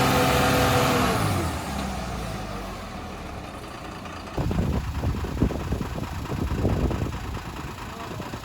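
Overloaded TATA truck's diesel engine running at high revs with a steady note that falls away about a second in. About four seconds in, a lower, rougher engine sound with irregular knocks starts abruptly, as the loaded truck labours to pull.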